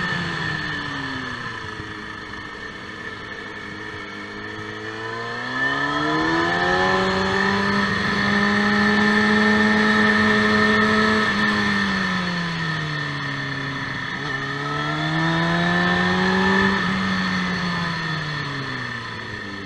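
KTM motorcycle engine, heard from on board on a circuit. The engine note falls as the bike slows for a bend and rises as it accelerates out and holds speed; this falls and rises again twice through the following corners.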